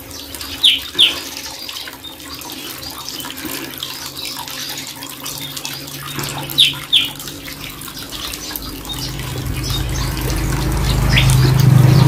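Asian fairy-bluebird giving short, sharp two-note calls: a pair about a second in, another pair about six and a half seconds in, and a single note near the end, over a steady sound of running water. A low hum swells in the last few seconds.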